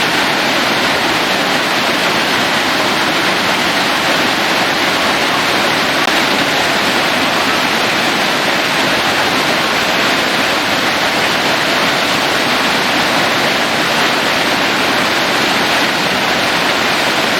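Waterfall cascading onto rocks and into a pool: a loud, steady, unbroken rush of falling water.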